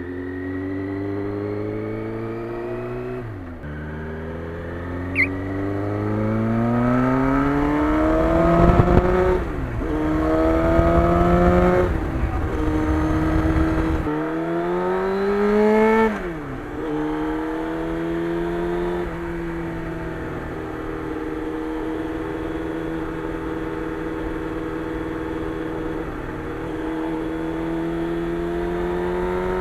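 Motorcycle engine accelerating up through the gears: the revs climb and drop sharply at each of several upshifts, then hold steady at cruising speed from a little past halfway.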